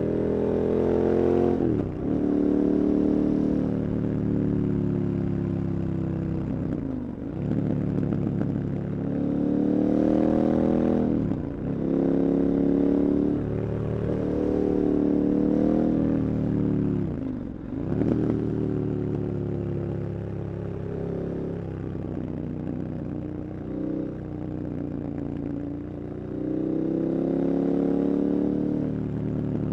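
KTM 1290 Super Adventure's V-twin engine under hard riding. Its pitch climbs under acceleration and drops sharply about half a dozen times as the throttle is closed or gears change, then climbs again.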